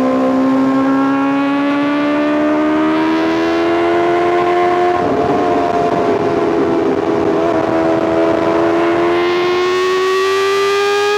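Honda CBR650R inline-four engine with an Arrow Pro Race titanium full exhaust, running under load as the bike accelerates. The exhaust note climbs slowly, levels off about halfway, then rises again near the end.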